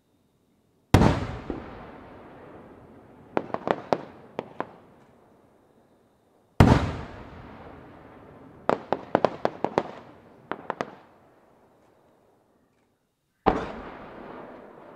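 Aerial firework shells bursting: three loud booms, each trailing off over a few seconds. The first two are each followed about two seconds later by a quick string of sharp pops as the stars crackle.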